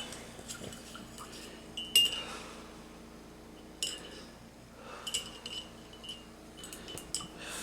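Several sharp clinks of small hard objects knocked together on a work table, each with a brief ringing tone, the loudest about two seconds in.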